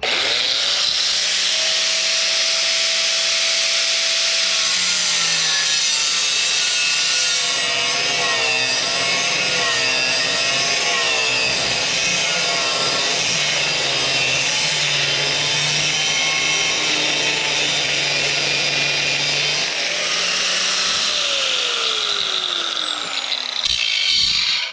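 Handheld angle grinder cutting steel, running steadily with its pitch wavering as the disc bites and eases in the cut. It is cutting small pieces of steel to size for patching worn blower fan blades.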